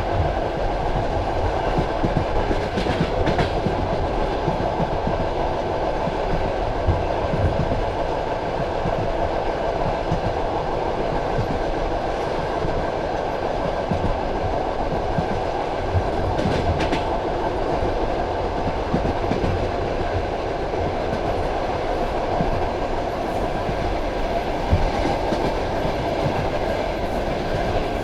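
Passenger train carriage on the move, heard from the carriage window: a steady rumble of wheels on rails, with the odd wheel knock over a rail joint.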